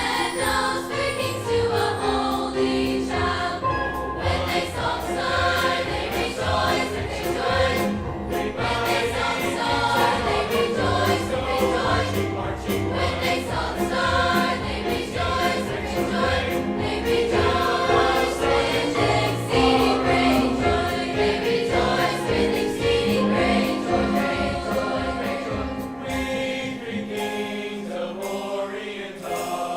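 Large high school choir singing a Christmas song with accompaniment; the low accompanying notes drop away near the end.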